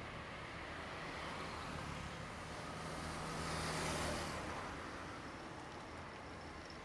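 A vehicle passing by: a low engine hum with a rushing noise that builds, peaks about four seconds in, then fades.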